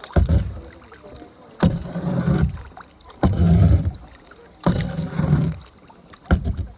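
Kayak paddle strokes in the water, about one every second and a half, each starting sharply and dying away over about half a second.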